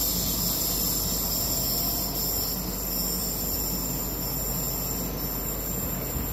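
Low rumble of an electric regional train moving away down the line, slowly fading, under a steady high buzz of insects in the trees.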